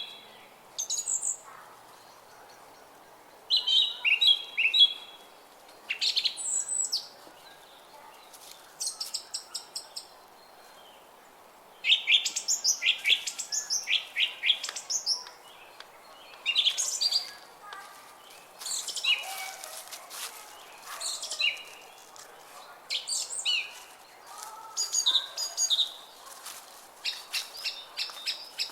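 Songbirds singing and chirping in short, varied phrases with brief pauses between them. The songs grow denser and overlap from about halfway through, over a faint steady background haze.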